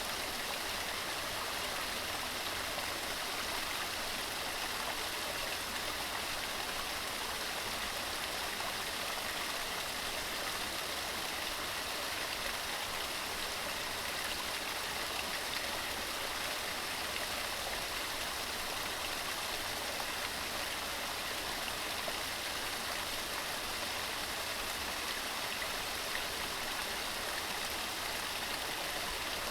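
Waterfall: water tumbling over rocks in a steady, unbroken rushing hiss.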